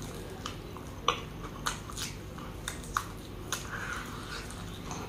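A person chewing mutton adobo close to the microphone, with about six sharp, wet mouth clicks and smacks spread through the middle.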